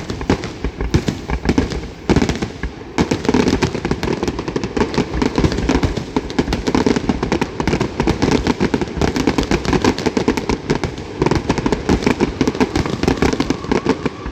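Fireworks grand finale: a few separate bangs, then about three seconds in a dense, rapid barrage of bangs and crackling that keeps going.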